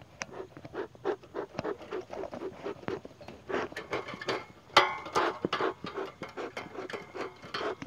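Wooden beehive parts being handled: irregular rubbing, scraping and small knocks, several a second, louder and busier around the middle.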